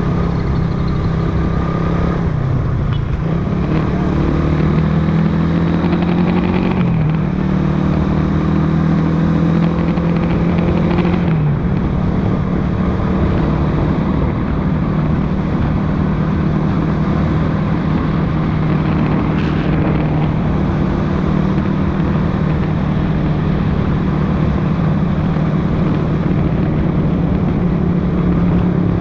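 Motorcycle engine running while riding in road traffic. Its pitch climbs and then drops sharply a few times in the first dozen seconds as the bike speeds up and eases off, then holds steady.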